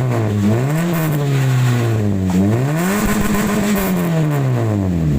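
Toyota Vios inline-four engine being revved through its exhaust muffler. The pitch climbs quickly about a second in and again about three seconds in, each time winding slowly back down toward idle.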